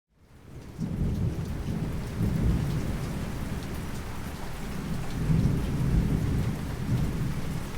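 Steady rain with rolling rumbles of thunder, fading in over the first second: a rainstorm recording laid in as a song intro.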